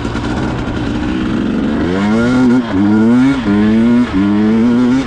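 Dirt bike engine running steadily at low revs, then revving up as it pulls away about two seconds in. Its pitch climbs and drops back three times as it shifts up through the gears.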